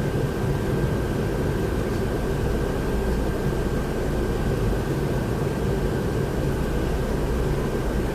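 Steady engine and road noise of a moving tour vehicle heard from inside the cabin: an even low rumble with a faint steady whine above it.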